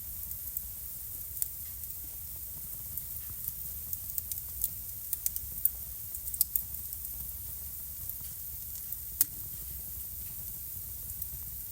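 Wood fire crackling in a fireplace: a steady soft hiss with scattered pops and snaps, thickest in the middle, and one sharp pop about nine seconds in.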